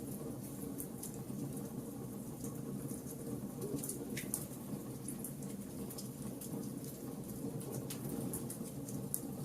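Wood fire burning: a steady low rush of flame under irregular sharp crackles and small pops from the burning wood.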